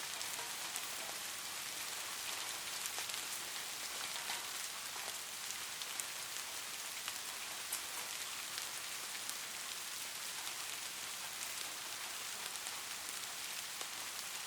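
Steady rain falling, a close hiss with many small, sharp drop ticks on a hard surface; no thunder.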